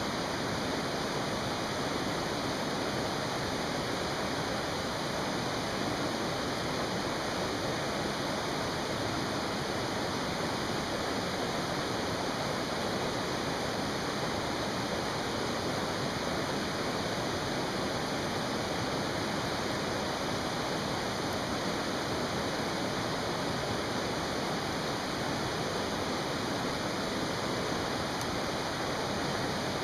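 Mountain stream rushing, a steady unbroken wash of water noise.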